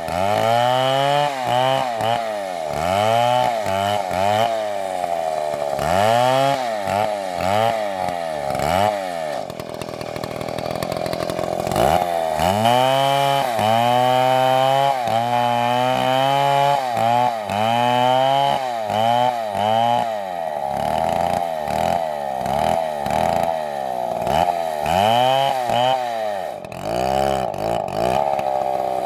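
Large two-stroke chainsaw cutting into a big tree trunk. The engine pitch dips under load and climbs back again and again, a little more than once a second. Partway through it steadies for a few seconds, and near the end its pitch falls away.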